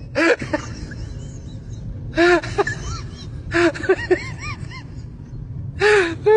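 An animal's short rising-and-falling calls, coming in four quick groups, over a steady low rumble.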